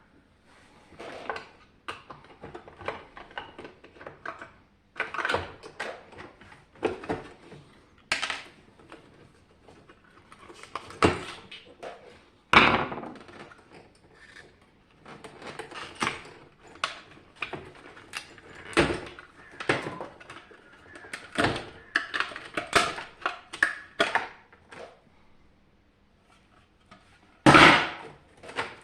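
Irregular knocks, clicks and rattles of a dehumidifier's parts and tools being handled during disassembly, with a few louder knocks and a short pause near the end.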